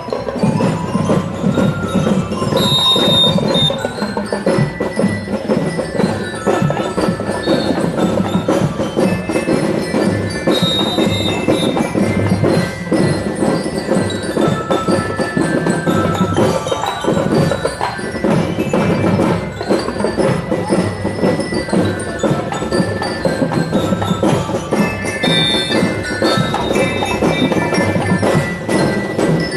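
School marching band of bell lyres and drums playing a tune, with the bright bell melody carried over a steady drum beat.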